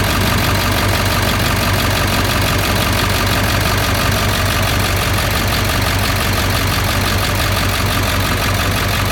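7.3-litre diesel V8 of a pickup truck idling steadily.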